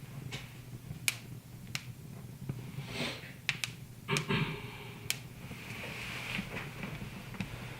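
Wood fire crackling, with sharp irregular pops about once a second and a softer hiss between them.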